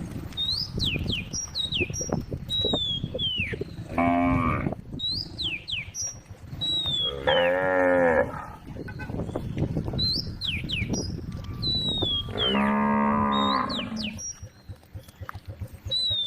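Cows mooing: three long lowing calls about three to five seconds apart, the middle one wavering in pitch. Between them a bird repeats a whistled note that slides downward, about once a second.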